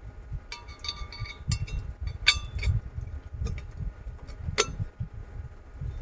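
Kitchenware clinking: a run of sharp, ringing knocks over a steady low rumble of heavy rain and wind on the campervan.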